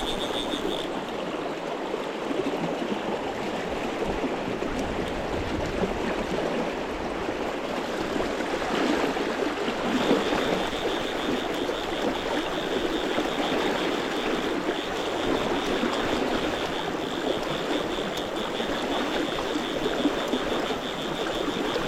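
River water rushing steadily, an even noise without breaks.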